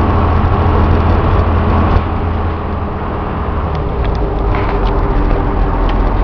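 Cummins diesel engine of a step van running, heard from inside the cab; about two seconds in its note drops lower and quieter as the van slows. The owner says the motor makes more of its noise when it comes to a stop and the oil pressure drops.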